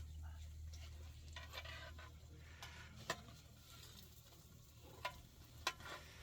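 Faint sizzling of food frying in a pan, with a few sharp clicks of a utensil against it.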